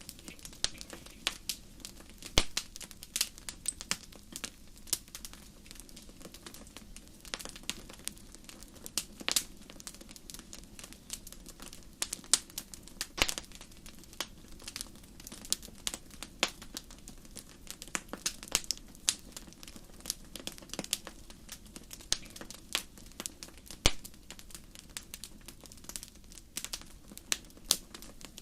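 Wood fire burning in a fireplace, crackling with irregular sharp pops and snaps over a low steady rush of flame.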